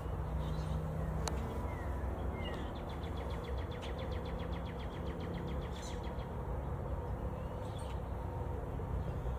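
Small songbird calling: a few short chirps, then a fast trill of about nine notes a second for roughly three seconds, over a steady low outdoor rumble.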